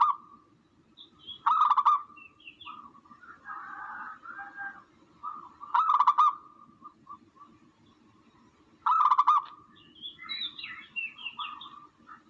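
Recorded calls of doves (tukmo) played as a bird-hunting lure: a loud call comes four times, a few seconds apart, with softer chirps and warbles between them.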